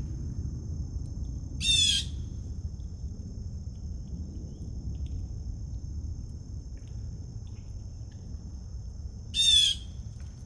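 A bird gives a short harsh squawk twice, the calls about eight seconds apart, over a steady high-pitched drone and a low background rumble.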